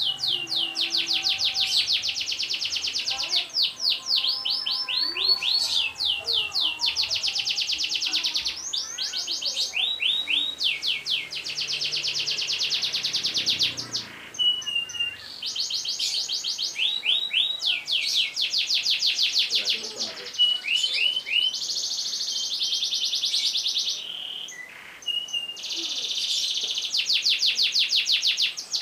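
Domestic canary singing long, rapid rolling trills, one fast-repeated note type after another, each run lasting a second or two with short breaks between.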